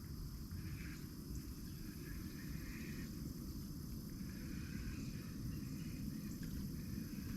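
Dusk outdoor ambience: steady high-pitched insect drone, with animal calls repeating every second or so, over a low rumble.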